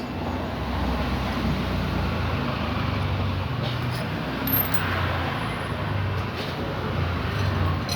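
Steady low rumble of a running motor vehicle engine, with a few faint light clicks.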